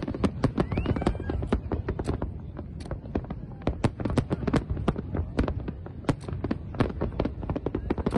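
Aerial fireworks display going off in rapid succession: sharp bangs several times a second, overlapping and continuing over a steady low rumble.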